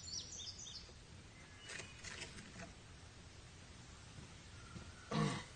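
Quiet outdoor ambience: a bird chirping quickly right at the start, a few faint knocks about two seconds in, and one short, louder sound a little after five seconds.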